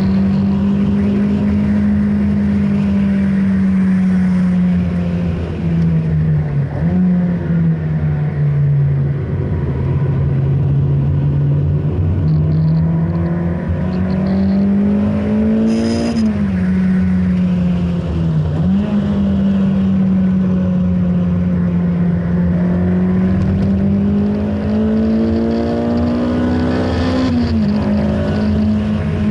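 Honda Integra DC5's four-cylinder engine driven hard around a circuit, heard from inside the cabin. The revs climb under acceleration and fall away sharply several times at gear changes and lifts, with a last climb and drop near the end.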